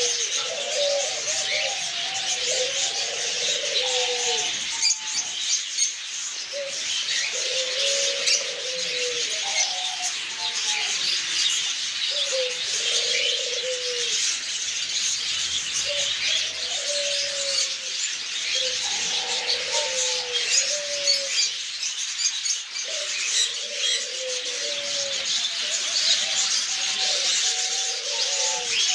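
Many caged pet birds chirping together in a continuous high chatter. Lower falling calls repeat every second or two underneath.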